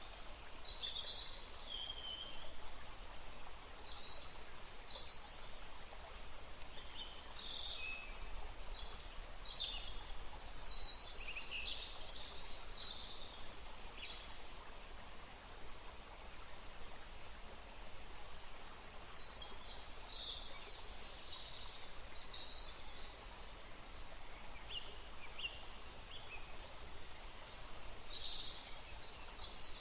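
Wild birds chirping in short repeated calls, in bursts with brief lulls, over a steady rushing of wind in the trees and water.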